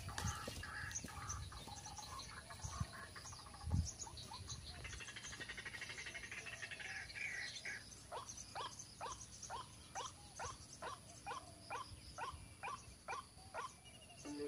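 White-breasted waterhen calling: a fast, even run of short notes, each falling in pitch, about two a second through the second half, over a faint background chorus.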